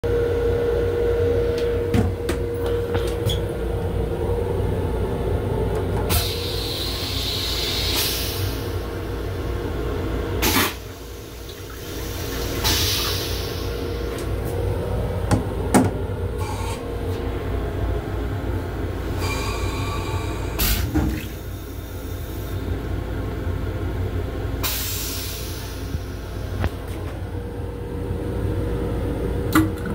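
Inside an M7 electric commuter railcar's restroom: the car's steady running rumble with a steady hum, broken by scattered sharp clicks and several short hissing swells, and easing off briefly about eleven seconds in.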